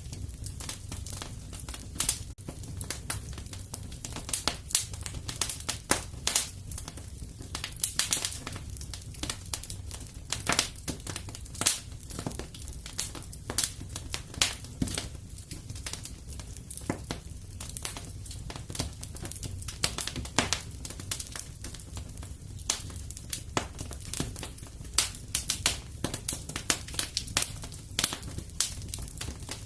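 Fireplace fire crackling: irregular sharp pops and snaps, some louder than others, over a steady low rumble.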